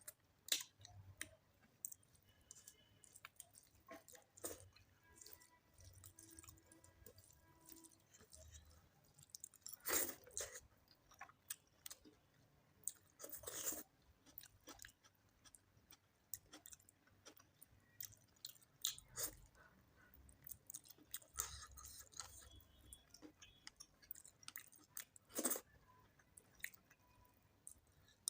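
A person eating chicken curry and rice close to the microphone: soft, irregular wet chewing and mouth smacks, with a few louder smacks along the way.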